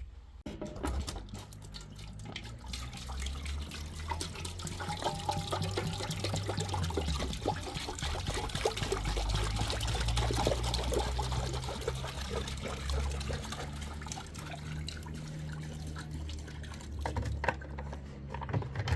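Running water, a steady rushing splash full of small crackles that grows louder toward the middle and then eases.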